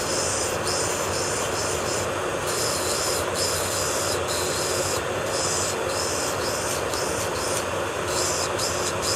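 Electric nail drill (e-file) running steadily while its bit grinds gel off a fingernail, the high grinding hiss coming and going every second or so as the bit touches the nail and lifts away.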